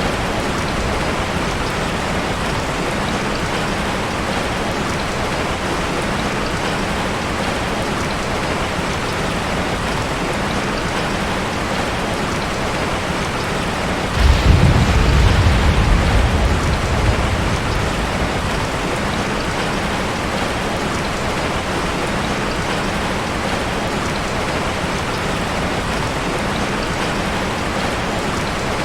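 Steady heavy rain falling, with a low roll of thunder about halfway through that rises suddenly and fades away over a few seconds.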